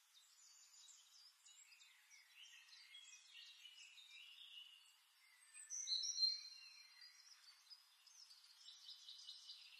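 Faint forest birdsong: scattered high chirps and short whistled calls, a little louder about six seconds in.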